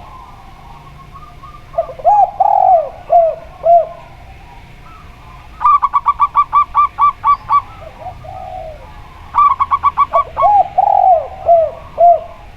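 Zebra dove and spotted dove cooing in turn. A phrase of four low, arching coos comes about two seconds in and again near the end. Between them come a quick run of about ten higher, clipped notes, a single low coo, and then a shorter quick run.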